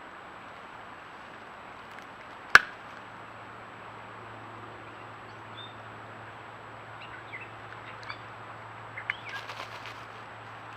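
Steady background hiss with a faint low hum. A single sharp click comes about two and a half seconds in, and short bird chirps and calls follow in the second half.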